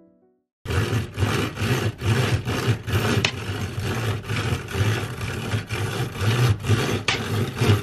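Heavy rain pouring outside, a loud rushing hiss that swells and dips unevenly over a low rumble, starting abruptly just under a second in.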